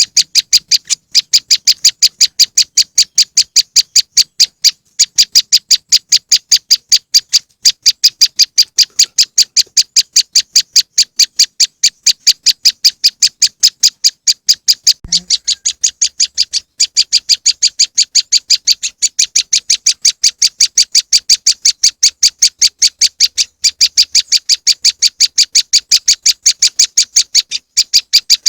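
Prenjak lumut bird-lure call: a rapid, unbroken series of short, loud, high chip notes, about four to five a second, with a faint low knock about halfway through.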